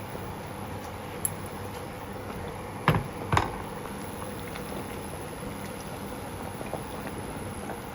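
Steady background hum, with two short sharp knocks about half a second apart around three seconds in and a faint click a little earlier.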